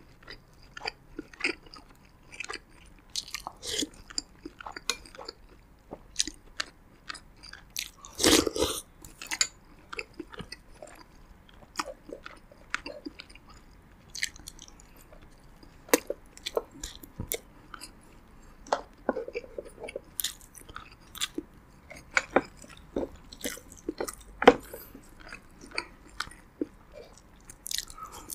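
Close-miked chewing and biting: a person eating roasted pigeon with rice, many short irregular mouth clicks and smacks, with one louder, longer noise about eight seconds in.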